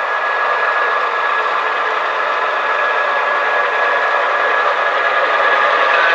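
Model train running on layout track: a steady whir and rattle with a thin, even whine, growing slightly louder.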